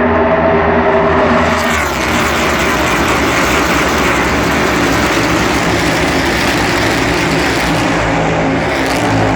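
NASCAR Cup Series cars' V8 engines at racing speed, a pack passing close by one after another, each note dropping in pitch as it goes past; the roar thickens about a second and a half in and stays dense to the end.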